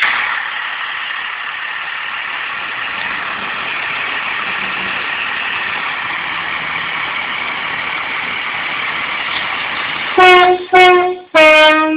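Class 165 diesel multiple unit running into the platform with a steady rushing noise, then a train horn sounds three times near the end: two short blasts and a longer one on a slightly lower note.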